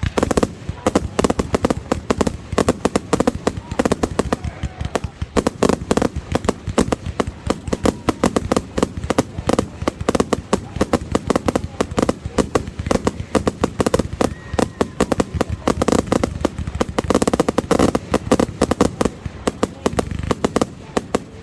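Fireworks show barrage: a rapid, dense run of sharp bangs and crackles, many per second, with people's voices underneath.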